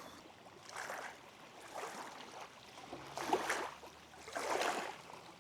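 Water lapping at the shore in irregular noisy swells, the loudest a little past three seconds in and again about four and a half seconds in.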